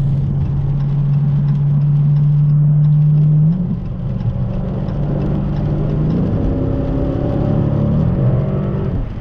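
Dodge Challenger's HEMI V8 heard from inside the cabin while driving, a steady engine note over road noise. Its pitch steps up about three and a half seconds in and shifts again a couple of times near the end as the car changes speed.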